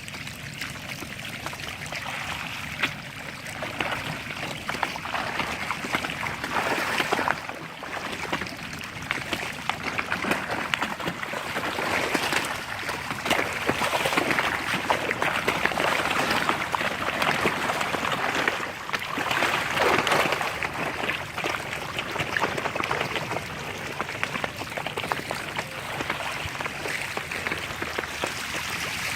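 Flowing river water: a steady rushing, swelling louder a few times.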